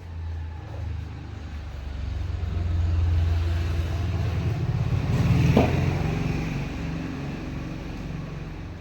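Low rumble of a passing motor vehicle, building over the first few seconds and fading toward the end, with one sharp knock about five and a half seconds in.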